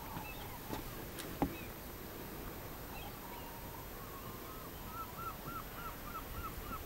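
Faint outdoor quiet with a bird calling repeatedly: thin chirping notes, ending in an even run of short notes about four a second near the end. A single sharp click sounds about a second and a half in.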